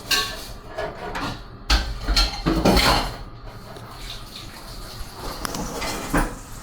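Small metal parts being handled and knocked together, a few sharp clicks with a louder cluster of knocks and bumps about two to three seconds in.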